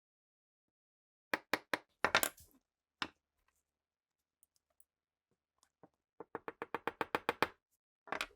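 Sharp small metal clicks and knocks from handling pistol parts: a few single clicks, then a quick, even run of about a dozen clicks near the end.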